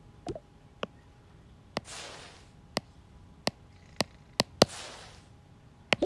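Dolls and small toy pieces being handled in a toy house: a series of sharp clicks and taps, about nine in all, with two short rustling hisses about two and four and a half seconds in.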